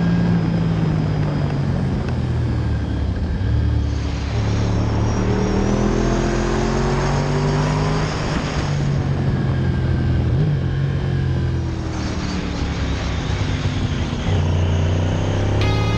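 Motorcycle engine running under way with wind rush, its pitch climbing and dropping in steps as it pulls through the gears, with a change every few seconds.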